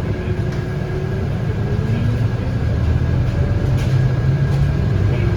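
Scania K230UB bus with its five-cylinder DC9 diesel and ZF Ecomat automatic, heard from inside the cabin while under way. The engine hum grows gradually louder, with a faint rising whine above it.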